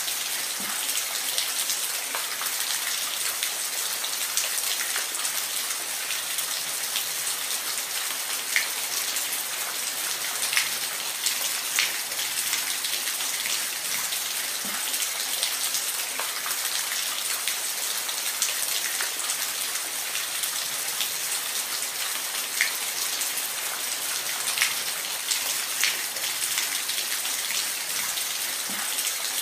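Steady rain, a dense hiss with scattered louder drops landing close by.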